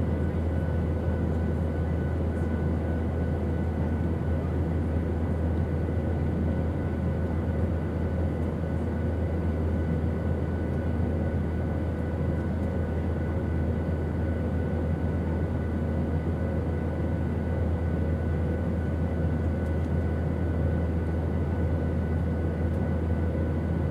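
Steady airplane engine drone: a deep, unchanging rumble with faint steady whines above it.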